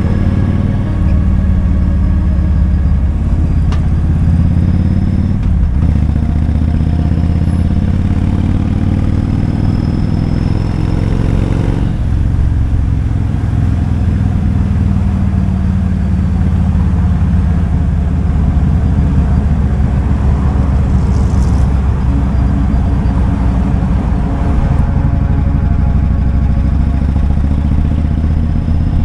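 Kawasaki Vulcan 2000's 2-litre V-twin engine running under way, its pitch rising steadily for about the first twelve seconds, then dropping abruptly before running on at a more even pace.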